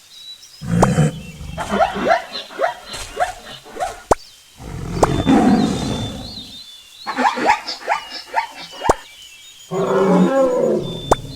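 Lion roaring in several bouts, each a run of short, deep grunts that fall in pitch, with brief pauses between bouts.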